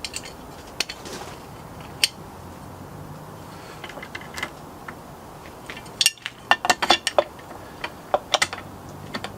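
Scattered sharp clicks and light metallic clatter of chainsaw parts and hand tools being handled, with a quick run of clicks about two-thirds of the way in and a few more near the end.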